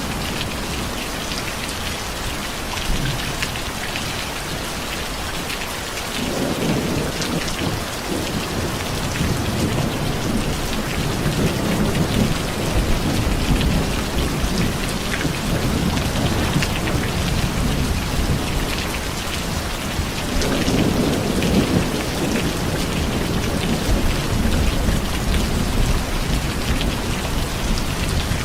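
Steady rain falling, with low rolling thunder that swells up about six seconds in and again about twenty seconds in.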